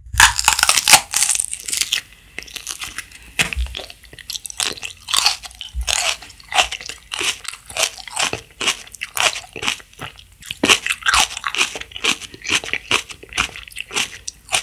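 Raw red sweet pepper bitten and chewed: a loud crisp bite right at the start, then steady crunchy chewing, roughly three chews a second.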